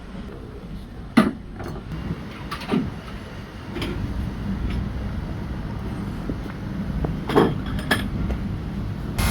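Metal shock-absorber parts clinking and knocking against each other and against metal, half a dozen separate strikes, over a steady low workshop hum.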